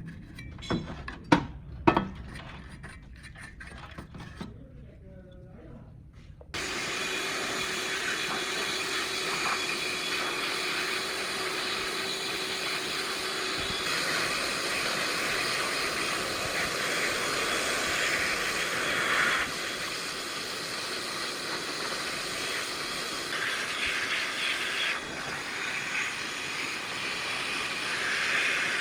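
A few sharp knocks, then a steady hissing machine noise starts abruptly about six seconds in and keeps running.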